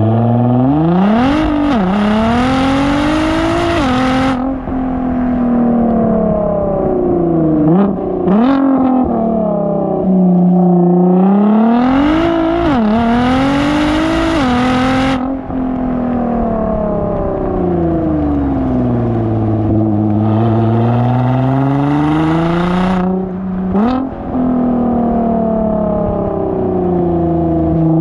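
Nissan GT-R R35 twin-turbo V6 through a Speed by Design aftermarket exhaust, accelerating hard: the engine note climbs in pitch and drops sharply several times, with a slower dip and recovery in the middle.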